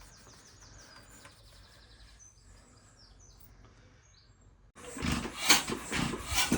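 Birds chirping faintly, then about five seconds in the Ruston 6PS stationary engine suddenly starts firing loudly and unevenly, in irregular pulses, while it is being started with a flooded mixture.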